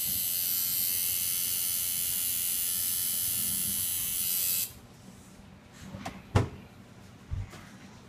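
Tattoo machine buzzing steadily, then cutting off suddenly about four and a half seconds in. A sharp knock and a softer thump follow a couple of seconds later.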